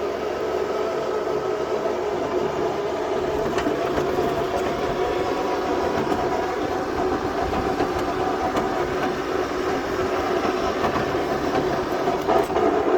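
12-volt starter-generator used as a drive motor, running steadily with a whine and gear rumble as it drives the Sears garden tractor through its original gear transmission.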